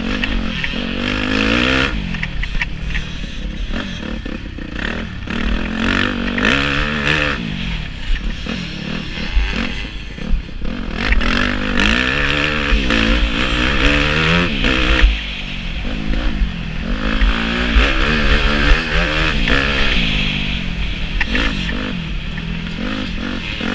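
Motocross bike engine heard from a helmet camera while riding, repeatedly revving up in pitch and dropping back as the throttle opens and closes through the corners and straights. There are occasional sharp knocks, the strongest about fifteen seconds in.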